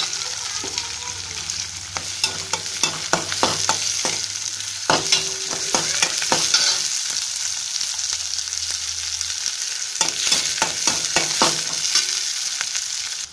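Onions, curry leaves and garlic frying in oil in a stainless-steel kadai with a steady sizzle, as a steel ladle stirs them, clinking and scraping irregularly against the pan. The onions are being sautéed until soft.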